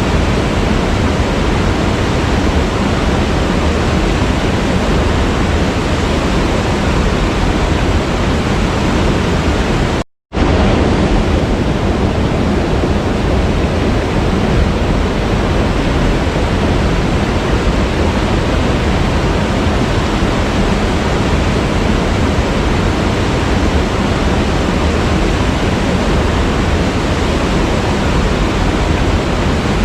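Waterfall: steady, loud rush of falling water with no change in rhythm. The sound cuts out abruptly for a fraction of a second about ten seconds in, then resumes at full level.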